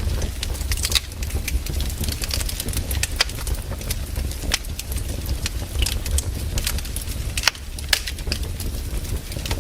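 Wood fire crackling: irregular snaps and pops over a low steady rumble.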